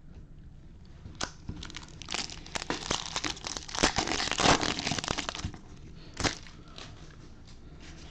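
Plastic foil wrapper of a baseball card pack crinkling and crackling as it is torn open and handled. A few sharp crackles come first, then a dense stretch of crinkling for about three seconds in the middle, and one last crackle near the end.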